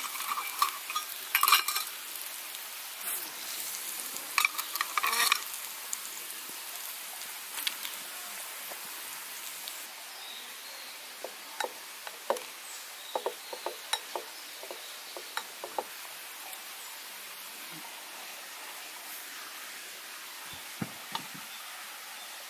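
Meat sizzling in a small frying pan over a brass alcohol burner, with a steady hiss. Metal cookware and utensils clink and clatter in the first five seconds or so; later the sizzle is quieter, with scattered light taps and scrapes of a spatula against a pot.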